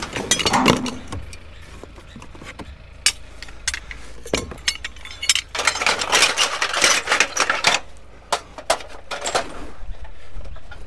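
Hard scrap items, metal among them, clinking and clattering as they are handled and moved about in a pile, with scattered sharp knocks and a busier run of clatter about six seconds in.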